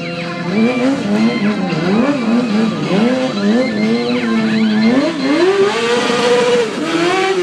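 Stunt motorcycle engine revved hard in quick repeated blips, the pitch jumping up and down, then held high for over a second before dropping and climbing again near the end.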